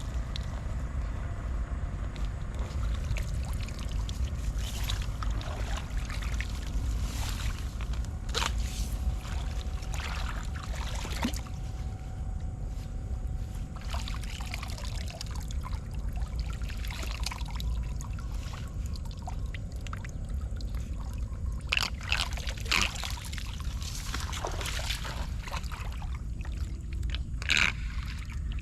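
Floodwater pouring and trickling as it drains, over a steady low rumble, with scattered splashes and knocks that come more often near the end.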